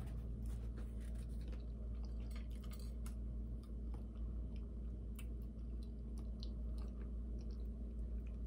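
A person chewing a mouthful of baked potato, with small wet mouth clicks, over a steady low hum.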